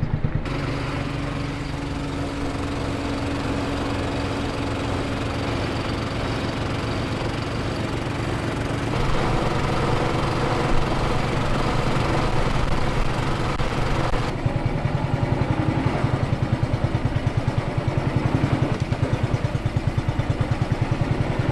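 A riverboat's outboard motor running steadily with a low hum. The sound shifts abruptly about nine and fourteen seconds in, and after that it throbs with a rapid even beat.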